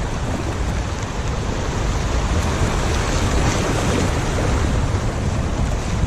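Steady rush of river water around a moving kayak, with wind buffeting the microphone.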